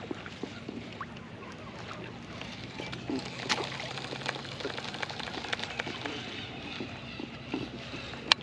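Water sloshing and splashing around a kayak, with many small clicks and crackles that grow busier partway through.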